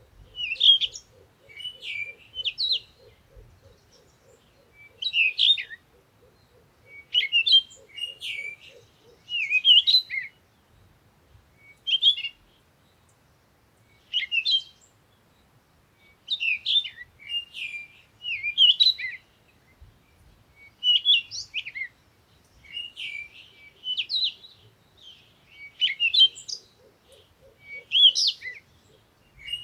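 Birds singing: short, bright chirping phrases repeat every second or two. A low, fast pulsing trill runs underneath for the first third and returns briefly near the end.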